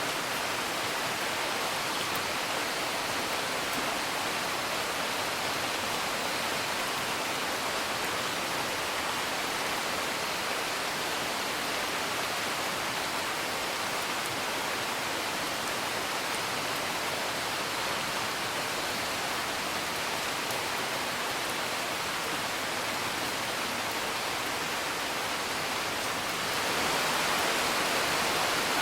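Steady rain falling, an even hiss with no thunder, growing a little louder about two seconds before the end.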